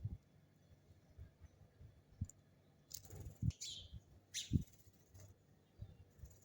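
A few short, high bird chirps, one of them falling in pitch about halfway through, among soft low thumps.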